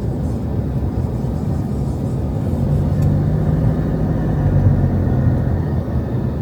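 Road traffic rumbling, with a motor vehicle's engine hum growing louder for a few seconds in the middle as it passes close by.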